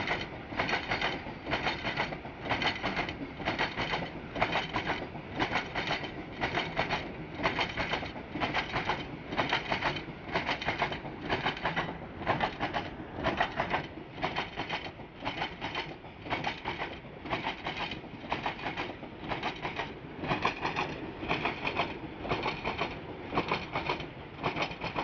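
Train wheels clattering over rail joints in a steady clickety-clack, about one and a half beats a second.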